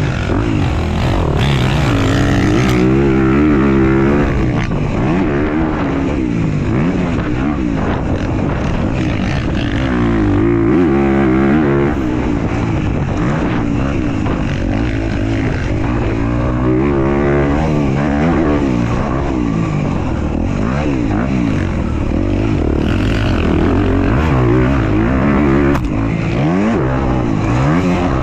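Dirt bike engine revving up and down over and over, its pitch rising and falling with the throttle as it rides a motocross track.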